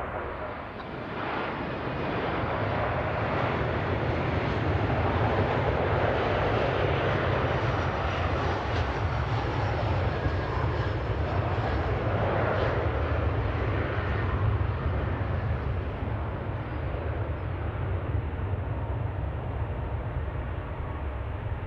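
A passing aircraft's engines: a steady rushing noise over a low rumble that builds over the first few seconds, stays strongest through the middle and eases a little toward the end.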